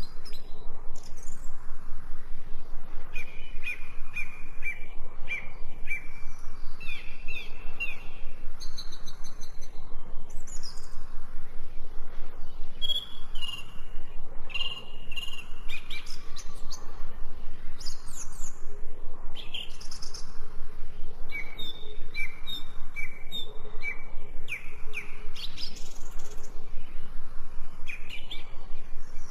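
Wild birds chirping and singing: short, repeated notes at several different pitches, overlapping one another throughout.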